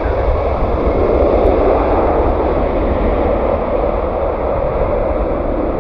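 Jet aircraft engines, a loud steady rush over a deep rumble, the hiss on top slowly dulling as the aircraft moves off.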